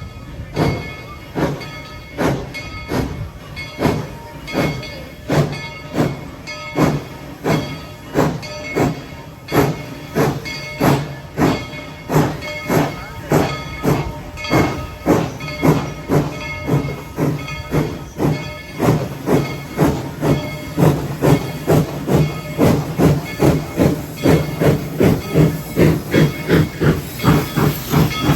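Steam locomotive No. 190, built in 1943, chuffing as it gets under way, with steam hissing. The exhaust beats quicken from about one and a half a second to about three a second and grow louder as the train picks up speed.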